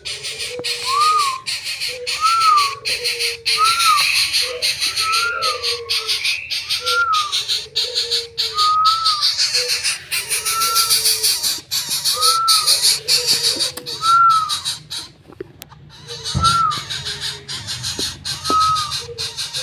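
Young cuckoo-family bird (kadalan or bubut chick) calling a short, arched whistled note over and over, about once a second, with a steady high hiss and quick clicks behind it.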